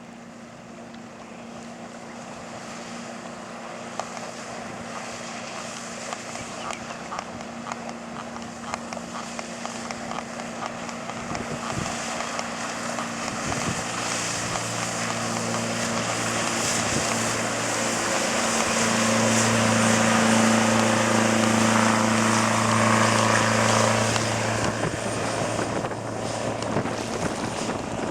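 Yanmar 29 Arashio boat's marine diesel engine running with a steady drone, growing steadily louder over the first twenty seconds or so, then dropping off a little near the end.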